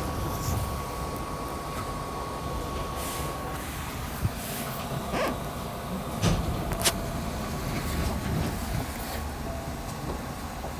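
Inside a Hankyu 6300-series train at the end of its run: a steady low rumble with a thin steady high tone that stops about three and a half seconds in, then a few sharp clicks and knocks in the middle.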